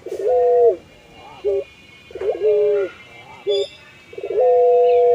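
Puter pelung dove cooing in repeated phrases: each a long held coo that drops in pitch at its end, followed by a few short wavering notes. A new long coo begins near the end.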